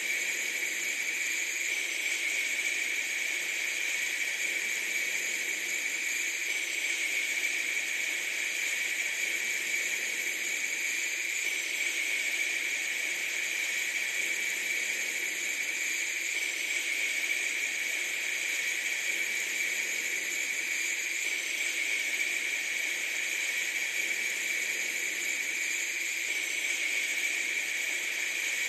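A steady, unbroken hiss, sharpest in the upper-middle range, with nothing else in it.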